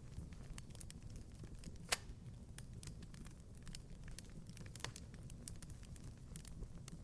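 Wood fire crackling in a fireplace: scattered sharp snaps and pops over a low steady rumble, with one louder pop about two seconds in.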